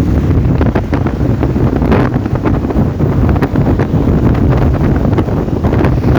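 Heavy wind buffeting the microphone of a camera on a moving motorcycle: a loud, steady rumble with many short crackles.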